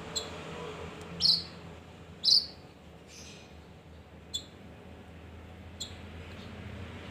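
Male kinoi songbird giving short, sharp chirps a second or more apart, the two loudest sliding down in pitch, over a low steady hum.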